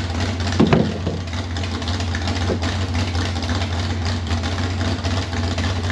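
Mud truck engine idling steadily, with one brief louder burst about two-thirds of a second in.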